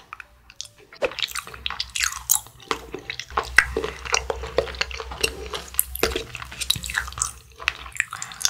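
Close-miked chewing of a soft jelly candy: many short, irregular mouth clicks in quick succession.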